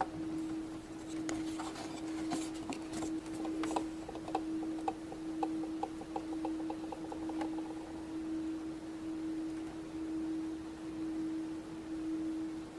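Light clicks and taps of plastic Play-Doh tools being handled while the star shapes are made, then a run of quick even ticks, about five a second, from about five to seven and a half seconds in. A steady low hum runs underneath.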